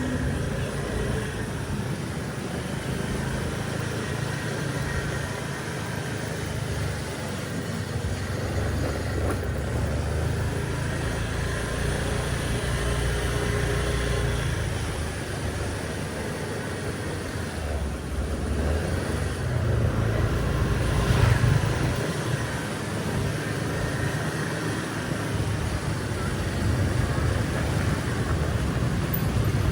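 Street traffic: motor vehicles running and passing in a steady rumble, with one passing loudest about two-thirds of the way through.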